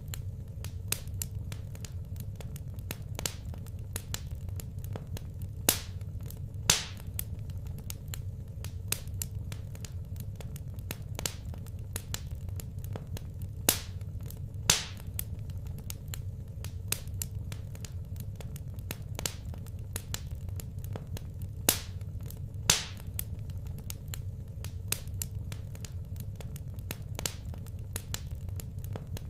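Wood fire in a fireplace crackling, with a loud sharp pop every few seconds over a steady low hum.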